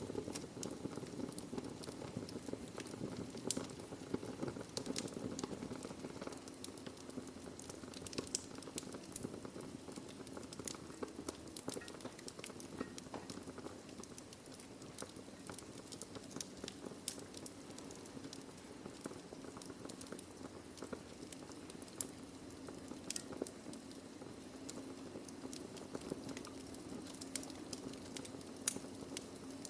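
Wood fire burning in a fireplace: logs crackling with irregular sharp pops over a steady low hiss.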